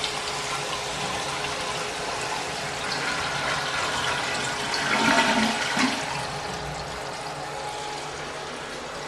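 A 1985 Crane Radcliffe tank toilet flushing: steady rushing water, growing louder to a gurgling peak about five seconds in, then easing off.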